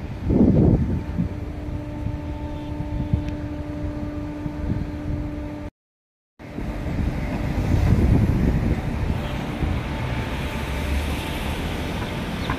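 Car on the move: steady engine and road noise with a low hum, broken by a brief cut to silence about six seconds in.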